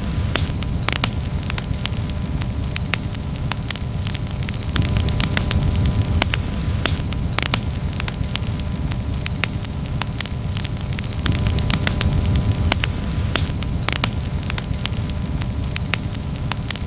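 Wood campfire crackling, with frequent irregular sharp pops and snaps over a steady low rumble of the flames.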